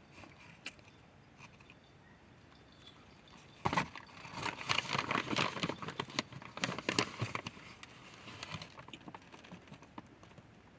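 Chunks of cornstarch being bitten and chewed close to the microphone: a dense run of crunching crackles starting about a third of the way in and tailing off a couple of seconds before the end.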